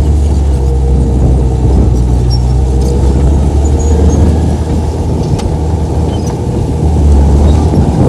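Komatsu bulldozer's diesel engine running steadily under load.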